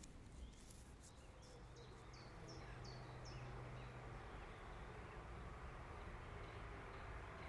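Faint outdoor ambience with a low steady rumble, and a bird giving a quick run of about five short chirps about two seconds in.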